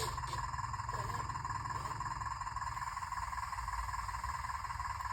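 Radio-controlled excavator running: a steady whine over a low rumble, with no change in pitch.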